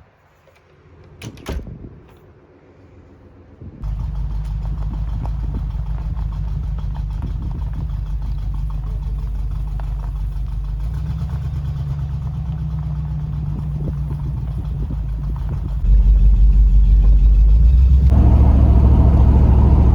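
Steady low engine and road rumble of a car being driven. It starts abruptly about four seconds in, after a couple of short knocks, and grows louder in two steps near the end.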